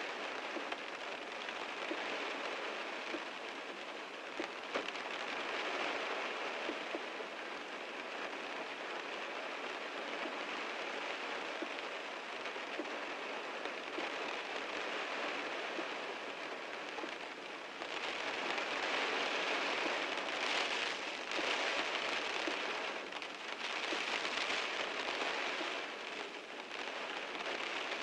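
Heavy rain falling on a car, a dense steady patter of drops that swells louder several times in the last third.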